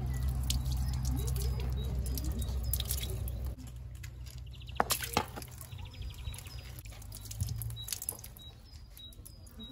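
Outdoor ambience: a steady low rumble that drops away about a third of the way in, two sharp clicks in the middle, and short high bird chirps repeating through the second half.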